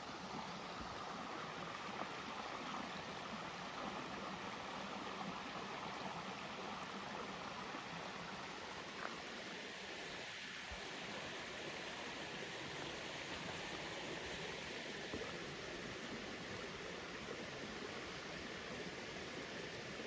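Spring water flowing steadily in a creek: an even, continuous rush.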